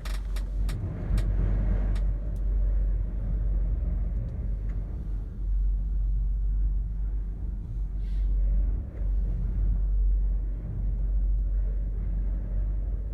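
Wind buffeting a gondola cabin and the microphone: a low rumble that swells and eases, with a few sharp clicks in the first couple of seconds.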